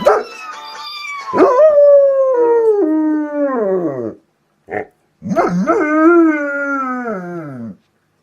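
Domestic dog howling in reaction to a phone ringtone: two long howls that slide down in pitch, with a short yip between them.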